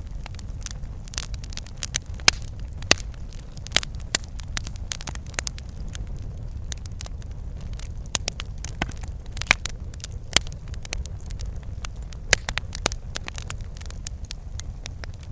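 Wood fire burning in a fireplace: a steady low rumble of flame with irregular crackles and sharp pops of burning logs.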